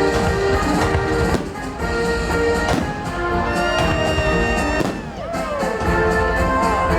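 Orchestral music with fireworks going off over it: several sharp bangs, and a few quick gliding whistles about five seconds in.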